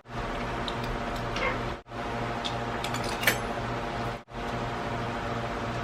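Steady mechanical hum with a faint pulsing rhythm, broken by a few small clicks of cutlery or dishes during a meal. It cuts out abruptly for a split second twice.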